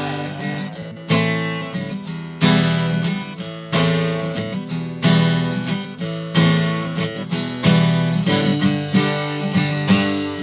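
Acoustic guitar strummed as an instrumental break between sung verses, a hard accented strum about every 1.3 seconds with lighter strums ringing out between them.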